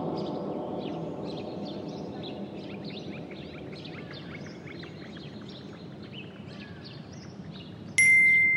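Many small birds chirping in quick short calls over a low background noise that slowly fades. Near the end a loud, bright bell-like note of glockenspiel music comes in.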